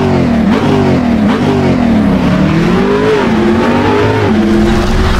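Car engine revving up and down repeatedly, its pitch rising and falling every second or so, loud and sustained.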